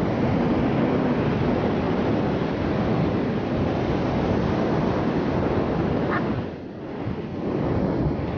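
Wind buffeting the microphone over the steady wash of surf on a beach, easing briefly about two-thirds of the way through.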